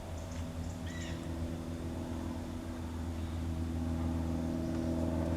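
1991 Ford Explorer's 4.0-litre V6 idling steadily, getting slightly louder about four seconds in. The owner wonders whether it is running on only five cylinders but thinks it is probably running on all six. A short high chirp sounds about a second in.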